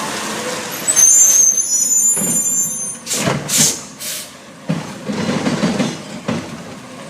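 Garbage truck moving off: a high brake squeal about a second in, then several short hisses of air and the truck's engine and mechanical rumble.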